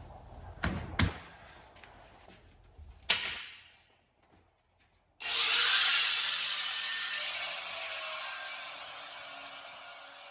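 A few hard knocks of metal being handled, then, from about halfway, a loud, steady cutting noise as a power tool cuts through the steel roll-cage tubing.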